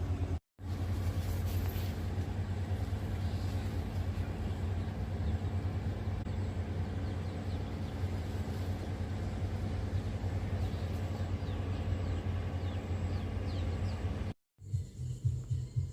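Steady low rumble with a hum, like a motor running, and a few faint short high chirps over it. It breaks off for a moment just after the start and again near the end.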